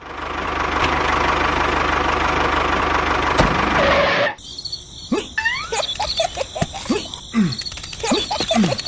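A small engine or motor running steadily with a rough, dense noise, which cuts off abruptly about four seconds in. Quick falling and rising whistling glides follow.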